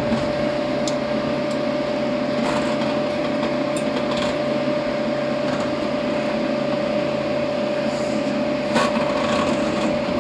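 Steady machine hum with a constant whine, broken only by a few faint light clicks.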